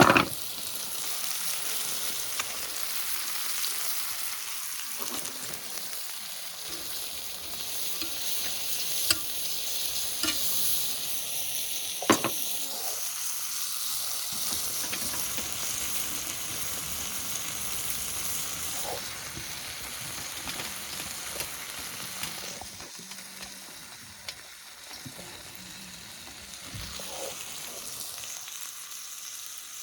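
Chicken neck meat sizzling as it is stir-fried with garlic in a pan, with a few sharp knocks of a utensil against the pan, the loudest right at the start and about twelve seconds in. The sizzle eases somewhat about two-thirds of the way through.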